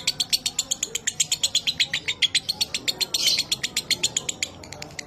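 Lovebird chattering in a long 'ngekek' run: a fast string of sharp, high chirps, about eight or nine a second, thinning out near the end.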